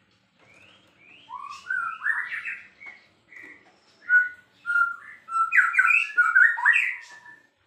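White-rumped shama (murai batu) singing a varied run of clear whistled phrases, starting with rising slurred notes. The song grows faster and louder in a rich burst about five seconds in.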